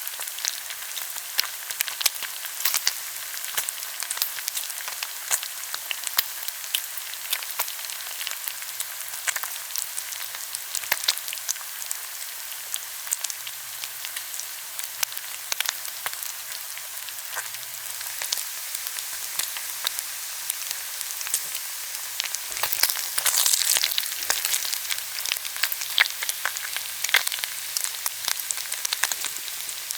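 Pork belly sizzling on a hot grill: a steady high hiss of frying fat with frequent sharp crackling pops, growing louder for a moment a little past two-thirds of the way through.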